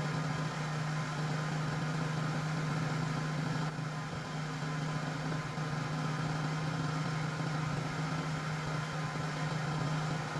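Sawmill's engine running steadily with an even hum, no cut being made.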